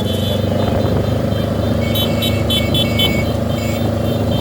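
Motor vehicle engines running steadily in a slow-moving motorcade, with a quick run of short high-pitched beeps or toots starting about two seconds in.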